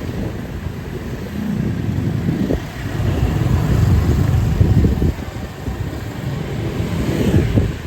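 Motorbikes passing on a busy market street, their engines loudest between about three and five seconds in, over general street bustle.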